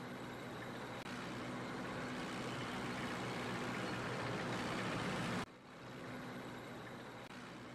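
Steady engine rumble with hiss, a vehicle engine sound laid under a toy tank, growing louder, then cut off abruptly about five and a half seconds in and carrying on more quietly.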